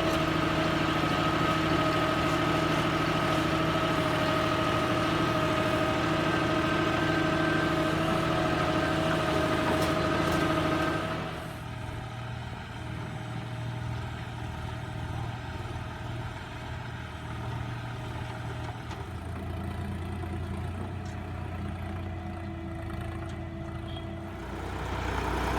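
Tractor diesel engine running steadily under load for about eleven seconds, then dropping suddenly to a quieter, lower idle, and picking up again near the end.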